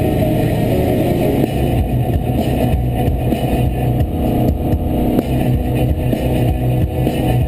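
Subaru Forester XT's turbocharged flat-four engine running steadily at highway speed, heard inside the cabin along with road noise.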